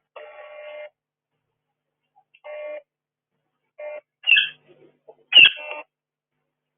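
A bird calling in short pitched bursts, about five calls, the loudest two near the end.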